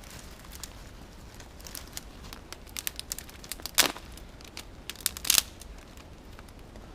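Thin dry twigs crackling and snapping as they burn fast in a small campfire: irregular sharp pops, with a few louder snaps near the middle and a little after.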